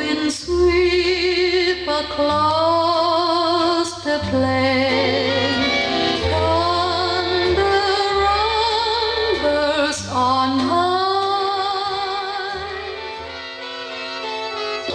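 A vintage song played from a vinyl record, heard in its introduction before the lyrics: a slow melody of long notes with heavy vibrato over a sustained bass line.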